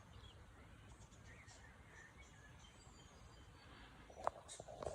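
Faint, scattered chirps of distant birds over a quiet outdoor background with a low rumble, with a few soft handling thumps near the end.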